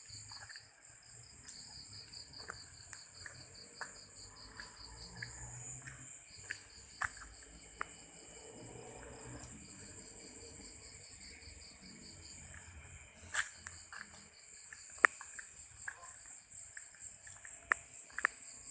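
Night insects trilling: one continuous high-pitched trill, with a second, rapidly pulsing trill that comes in runs of a few seconds with short gaps. Scattered short clicks and knocks over it, the loudest about fifteen seconds in.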